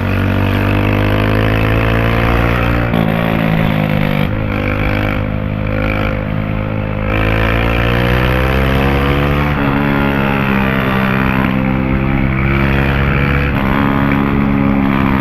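Honda CG 160's single-cylinder four-stroke engine, breathing through a homemade tin-can exhaust tip, accelerating hard through the gears. The note rises and drops back at each upshift, several times over, about 3, 4, 7 and 10 seconds in.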